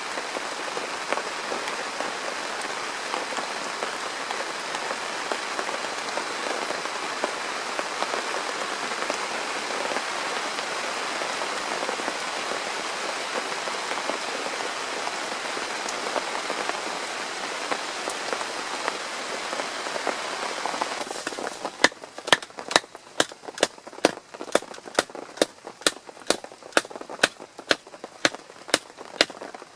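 Steady rain falling. About 21 seconds in, it gives way to a quieter background with a run of sharp taps, about two to three a second.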